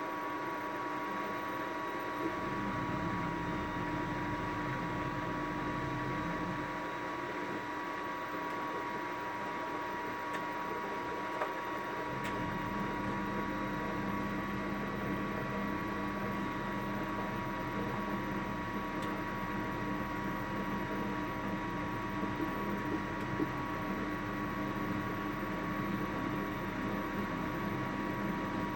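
Samsung washing machine spinning, heard from inside the drum: a steady mechanical hum with a few fixed whining tones. The low hum grows stronger about twelve seconds in.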